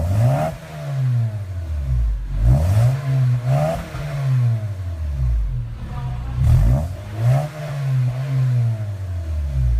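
Honda K24Z 2.4-litre four-cylinder engine revved up and down repeatedly through a Kansai full-system aftermarket exhaust, each rev rising in pitch and falling back.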